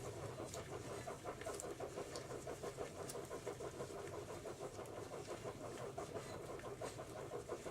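A rag on a wire clothes hanger scrubbing inside an HEI distributor housing: fast, even back-and-forth rubbing, with a few light clicks of the wire against the housing.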